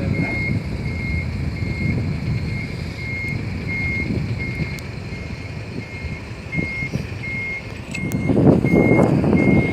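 Tractor-trailer's reversing alarm beeping steadily, about one and a half high beeps a second, as the truck backs its trailer, over the low running of the truck's engine. The rumble grows louder near the end.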